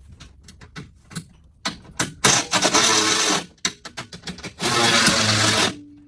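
A power tool running in two bursts of about a second each, driving fasteners, after a few small clicks and taps of hardware.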